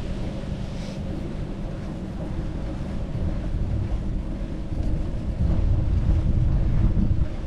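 Wind buffeting the microphone: a low, uneven rumble that grows louder about two thirds of the way through.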